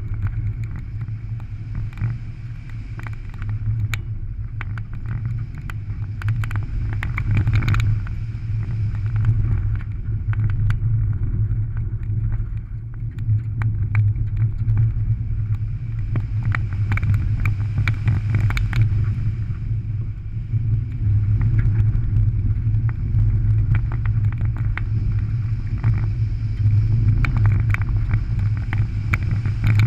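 Rallycross car's engine running hard through a dirt course, heard from inside the cabin, its loudness swelling and easing as the driver works through the corners. Gravel and grit clatter against the underbody in sharp ticks and pings.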